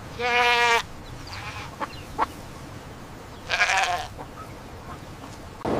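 A lamb bleating twice: a clear call right at the start, then a second, wavering bleat about three and a half seconds later.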